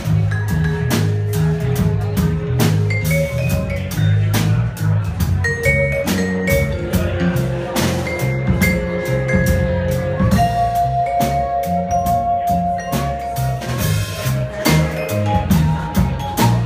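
Band playing an instrumental passage: drum kit beating steadily under a stepping bass line, with long held melodic notes on top.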